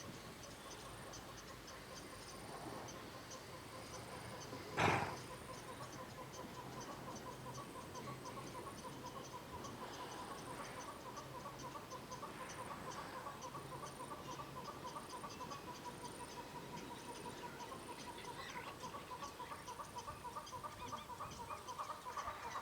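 A steady chorus of calling animals: a rapid pulsing trill and fast ticking throughout, with one short, loud sound about five seconds in.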